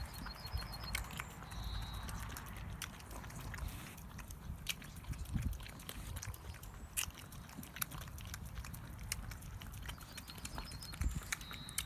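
Dogs sniffing and chewing at the remains of a slaughtered bull: scattered small clicks over a low rumble.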